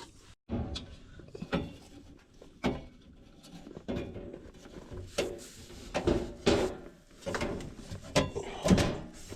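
Irregular metal knocks, clunks and scrapes as a furnace inducer motor assembly is worked into position in the sheet-metal cabinet, with a few louder bangs in the second half.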